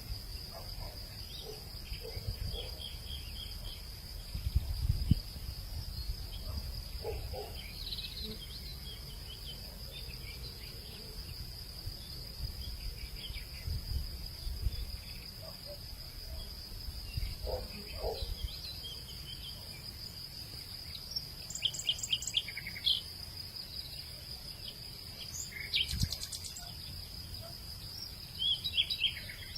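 A steady high-pitched drone of insects, with scattered short bird chirps and calls over it, and a low wind rumble on the microphone that gusts about five seconds in.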